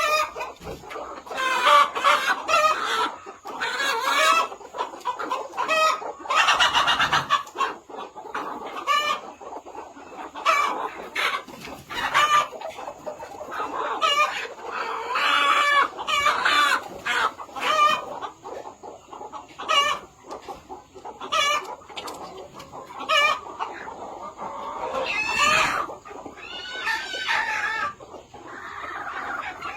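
Chickens clucking and calling continuously, many short calls overlapping, with a few longer drawn-out calls that may be a rooster crowing.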